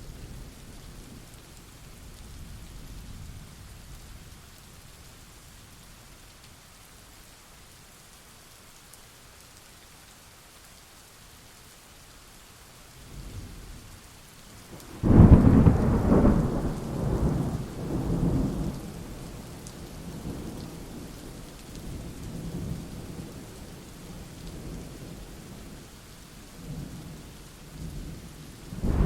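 Thunderstorm: a soft, steady rain hiss, then a sudden loud thunderclap about halfway through that rolls and rumbles on for several seconds. Another clap breaks right at the end.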